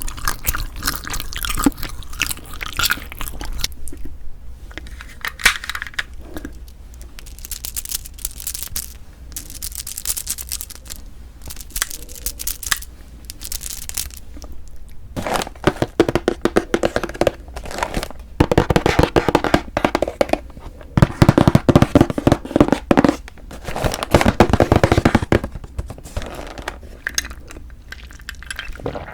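Close-miked eating of a Kiri cream cheese ice rice cake: crackling and tearing, quieter at first, then dense bouts of rapid crackling through the second half.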